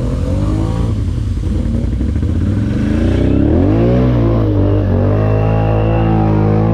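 ATV engine running and revving, its pitch rising and falling with the throttle, with a dip and quick climb about four seconds in.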